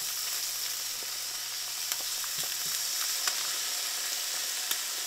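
Eggs and slices of ham frying in butter in a skillet: a steady high sizzle with a few faint pops.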